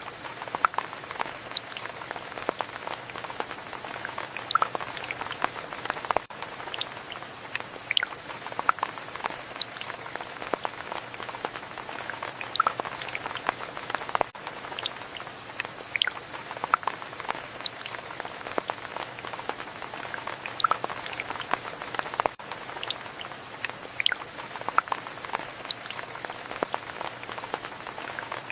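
Steady rain with close, separate drops pattering and ticking over the constant hiss of the downpour. A faint high tone slides downward about every eight seconds.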